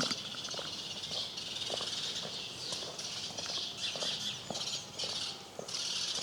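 A dense chorus of small birds chirping, over a walker's irregular footsteps on cobblestones.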